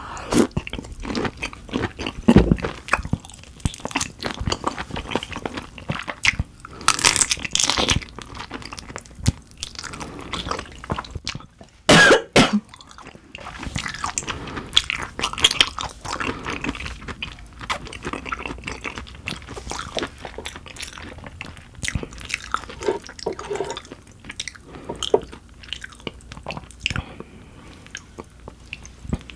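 Close-miked chewing of raw dohwa shrimp topped with green fish roe: wet mouth sounds with many small crunches and clicks, and a louder burst about twelve seconds in.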